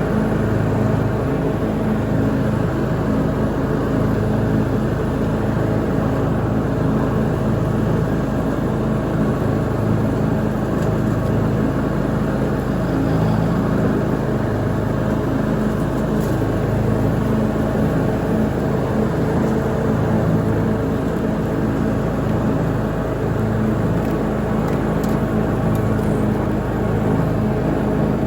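Lawn mower engine running steadily at a constant speed while mowing, with a low, even drone.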